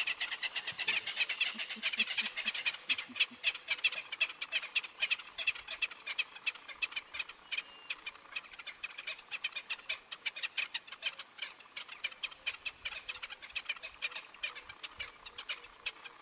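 Ground-nesting birds calling in rapid, repeated sharp notes that overlap into a continuous chatter throughout: alarm calls at leopards stalking close to them.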